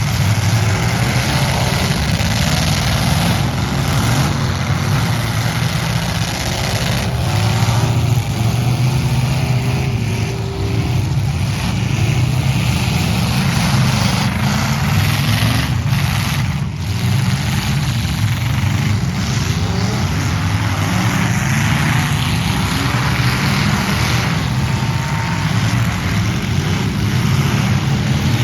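Demolition derby trucks' engines running and revving, a loud, steady engine din with no break.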